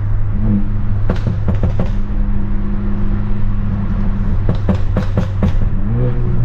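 Straight-piped, tuned BMW F30 328i's turbocharged four-cylinder engine droning steadily at low revs, heard from inside the cabin, with a few short sharp clicks and a slight rise in pitch near the end.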